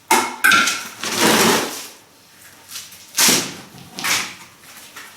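Trowel scraping and spreading a 1:3 sand-cement mortar on flat river stone. There are two longer scraping strokes in the first two seconds, then two short scrapes about three and four seconds in.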